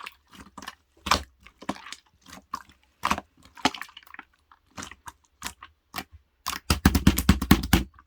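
A white 퐁당이 squishy toy being squeezed and pressed by hand, giving irregular crinkly crackles and clicks, with a quick dense flurry of them near the end.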